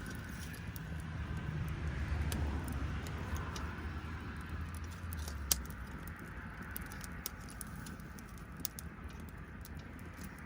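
Wood campfire crackling and popping, with scattered sharp snaps and one louder pop about five and a half seconds in. A low rumble swells under it in the first half, then fades.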